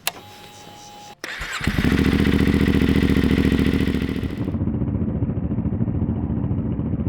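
An adventure motorcycle's engine being started: after a brief steady tone and a short crank about a second and a half in, it catches and runs loud and even. About four and a half seconds in the sound turns duller.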